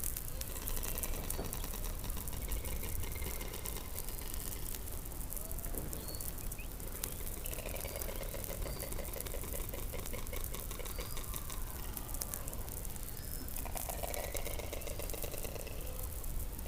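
Underwater sound from a hydrophone beneath the Antarctic ice: overlapping pulsed buzzing calls and short high chirps over a steady low rumble. The buzzing comes in stronger about halfway through and again near the end.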